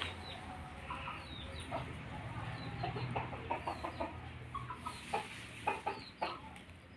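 Chickens clucking in short, scattered calls, with occasional brief high falling cheeps.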